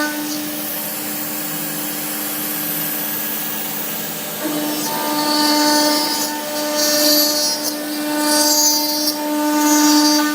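CNC router spindle running with a steady whine as its cutter mills 12 mm aluminium plate. The cutting noise swells and fades several times in the second half, as the tool bites harder along its path.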